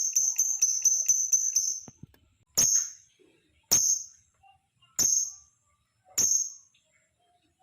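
Lovebird calling: a fast run of shrill, high chirps, about four a second, that stops about two seconds in, then four single sharp calls about a second apart.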